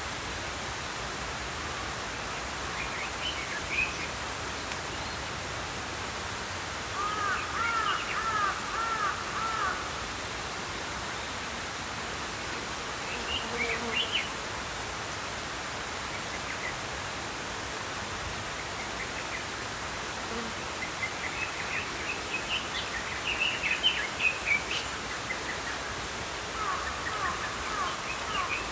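Small songbirds chirping over the steady rush of a flowing stream. A run of repeated arched whistled notes comes about seven seconds in, and the chirping grows busier near the end.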